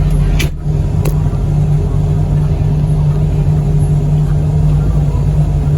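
Vehicle engine running with a steady low drone while driving, with two sharp knocks about half a second and a second in.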